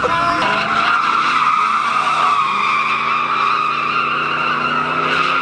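Tires squealing continuously as a pickup truck slides through a drift, with its engine running underneath.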